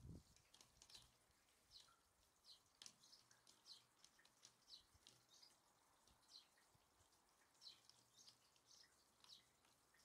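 Small songbirds giving faint, short, high chirps, about two a second.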